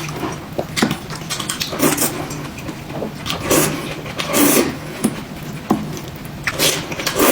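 Scattered clicks and knocks of dishes and tableware being handled and set down at a meal table, over a steady low hum.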